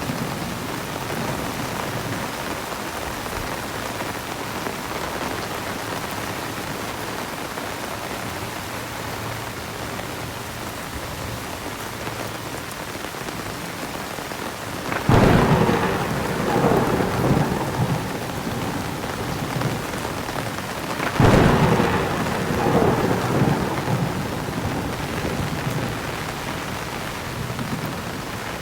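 Steady heavy rain pouring on surfaces. Two loud claps of thunder break in about halfway through and again some six seconds later, each rolling and crackling for several seconds before fading back under the rain.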